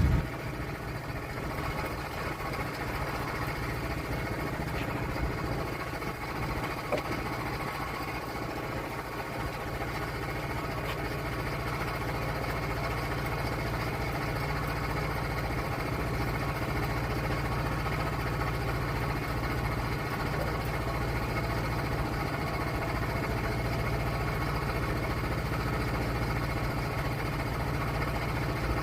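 Sawmill's engine running steadily, growing a little louder about ten seconds in.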